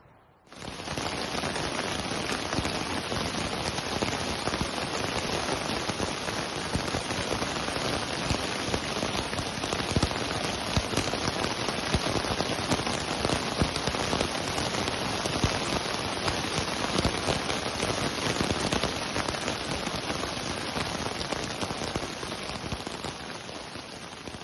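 Heavy rain falling, a dense steady patter of drops that cuts in abruptly about half a second in and fades out near the end.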